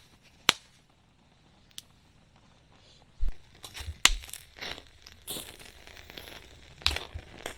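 Sharp metallic clinks and knocks of things being handled on and around a small metal fire stand, with rustling and dull handling bumps in the second half.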